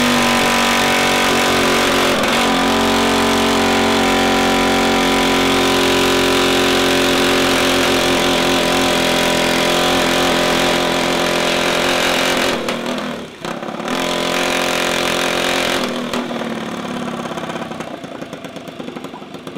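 Mini bike engines running loud and steady, with small shifts in pitch. The sound drops out briefly about thirteen seconds in, then comes back and fades toward the end.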